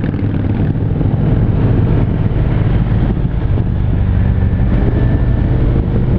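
Harley-Davidson touring motorcycle's V-twin engine running steadily while cruising, heard from the rider's seat.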